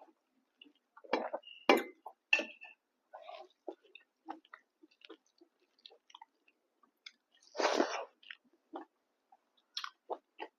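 Close-up chewing and mouth sounds of a person eating pork fry with rice and dal: a run of short wet smacks and clicks, with a few louder noises about a second in and a longer, louder one past the middle.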